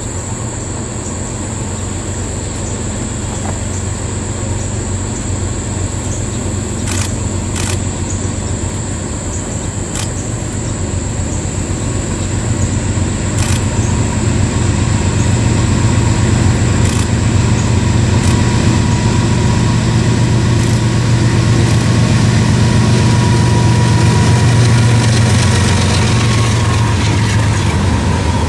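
Diesel locomotive engine running, a low steady drone that grows louder as the train approaches, with a few sharp clicks along the way.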